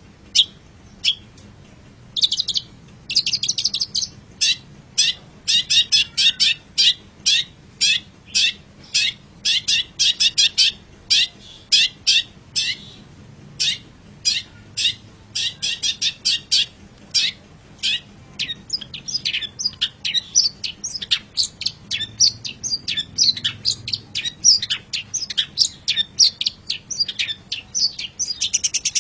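Long-tailed shrike (cendet) singing: a long run of short, sharp, high chirps at about three a second, growing faster and more jumbled in the second half.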